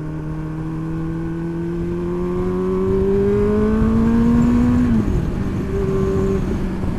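Motorcycle engine pulling under acceleration, its pitch rising slowly and steadily, then dropping about five seconds in and holding level, with a low rush of wind noise underneath.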